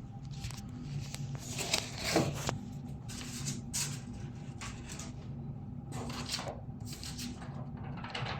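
Cardboard box and packing material being handled and pulled open: intermittent rustling and scraping, loudest about two seconds in, over a steady low hum.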